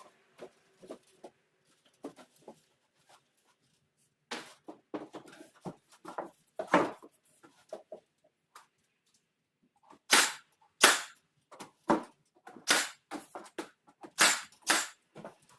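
Pneumatic nail gun firing repeatedly, fixing trim boards for coffered-ceiling edge beams. Sharp shots come in irregular runs: a few light knocks, a burst of shots around the middle, a pause, then about eight loud shots in quick succession near the end.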